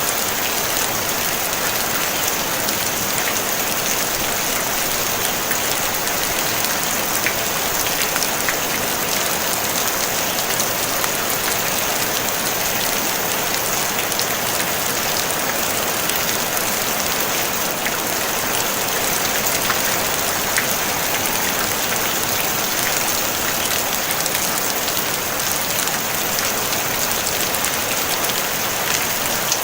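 Steady rain drumming on a tin roof, a dense even patter of drops with scattered sharper ticks, no thunder.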